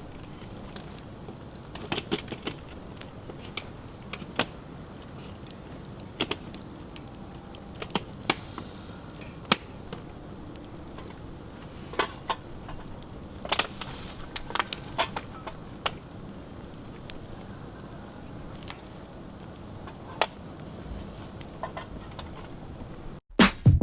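Wood campfire burning with a steady low hiss and sharp, irregular crackles and pops, a few of them loud. Music with a drum-machine beat cuts in suddenly just before the end.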